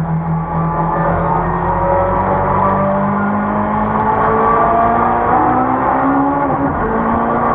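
Ford Cortina race car's engine running hard on track, a steady drone whose pitch climbs slowly as the car pulls.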